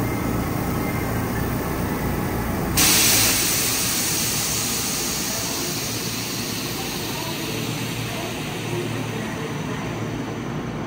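Hanshin electric train rumbling, then about three seconds in a sudden loud hiss of air that fades slowly over the next few seconds.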